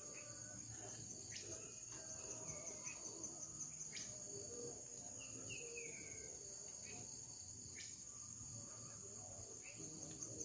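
Insects trilling steadily in a high, faintly pulsing drone, with a few short bird chirps over it.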